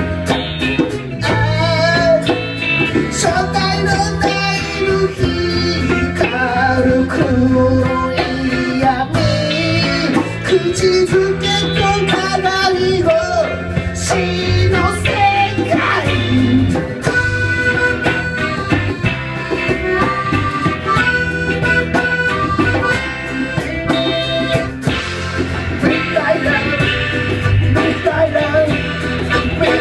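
Live band playing a guitar-led rock song, with a steady beat throughout.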